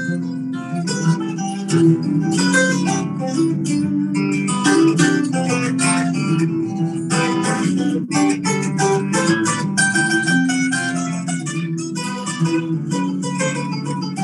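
Guitar music, strummed and picked notes playing an instrumental passage with no singing.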